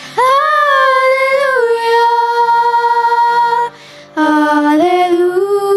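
School chorus singing a long, drawn-out "hallelujah" in held notes, with a brief breath break about two-thirds of the way through before the next phrase.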